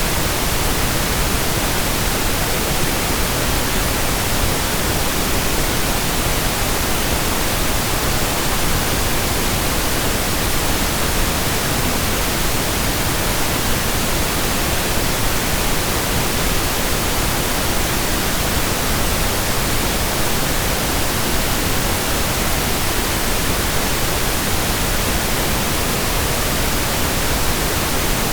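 Steady pink noise: an even, featureless hiss spread across the whole range, with no changes or events.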